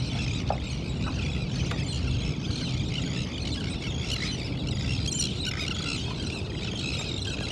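Many birds calling at once in a dense, continuous chatter of high chirps, over a steady low rumble.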